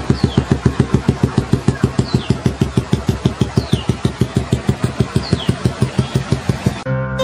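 Motorcycle engine idling with an even chug of about six beats a second, and a faint high falling chirp every couple of seconds. Music takes over just before the end.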